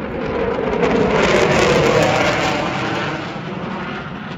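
Eurofighter Typhoon fighter jet's twin turbofan engines roaring in a display pass. The roar swells to a peak about two seconds in, then fades as the jet moves away.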